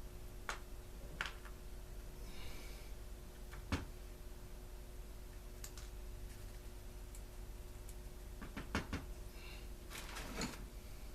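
Scattered light clicks and knocks of small parts and tools being handled on a workbench, irregular and a few seconds apart, with a brief hiss a couple of seconds in, over a faint steady hum.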